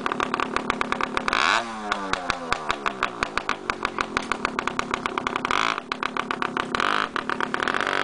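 Dirt bike engine running with an even popping beat, revved up about a second and a half in and then falling away, and revved again between about five and a half and seven seconds.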